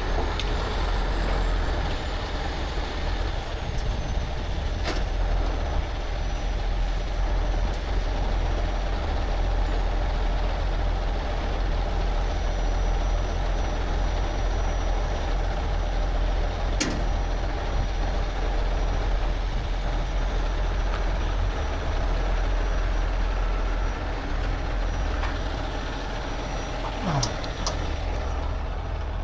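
Heavy tow truck's diesel engine running steadily under load, with a few brief sharp clicks.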